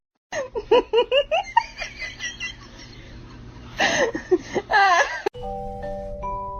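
Giggling laughter in quick short bursts, with louder laughs about four seconds in. About five seconds in it cuts off, and background music with chiming mallet notes takes over.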